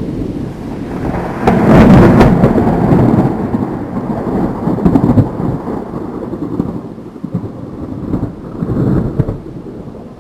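Thunder: a sharp crackling clap about a second and a half in, then a low rolling rumble that rises and falls and slowly dies away.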